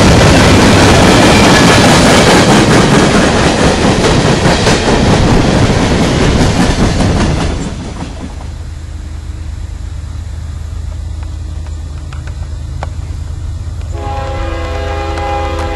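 Norfolk Southern train passing close by, its wheels clattering loudly over the rail joints. The clatter drops off sharply about halfway through, leaving a low diesel rumble. Near the end a locomotive air horn starts sounding a steady chord.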